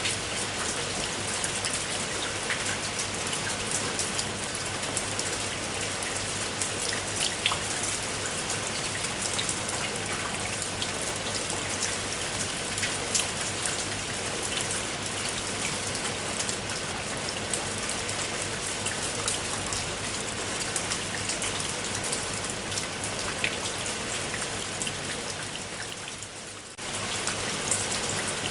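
Steady heavy rain falling, with many distinct drops ticking through the continuous hiss. Near the end it briefly fades down, then cuts straight back in at full level.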